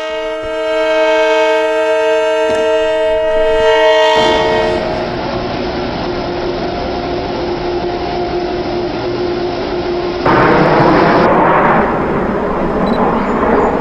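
Long Island Rail Road train sounding its horn in one long, chord-like blast that stops about four seconds in, followed by the steady noise of the train passing at speed. The passing noise grows louder about ten seconds in.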